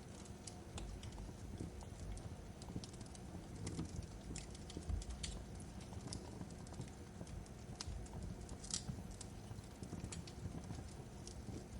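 Fireplace fire crackling: irregular sharp snaps and pops over a low, steady rumble of burning wood.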